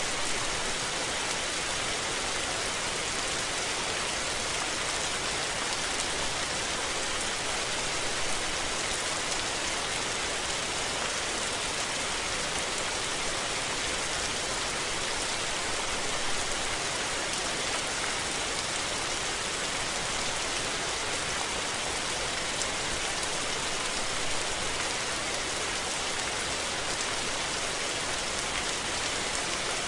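Steady rain falling, a dense even hiss of drops hitting surfaces with faint individual drop ticks.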